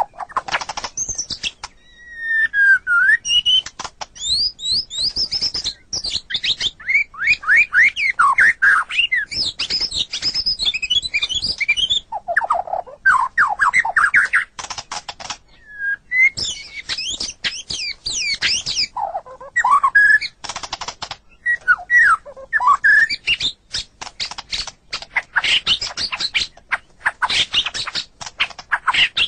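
White-rumped shama (murai batu) singing on and on: fast, varied whistled phrases of quick up-and-down sweeping notes, broken up by dry rapid clicking rattles and a few brief pauses.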